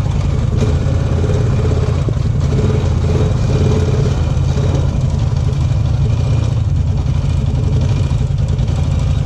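Off-road vehicle engine running steadily at a low, even pitch, heard from on board while riding a muddy trail.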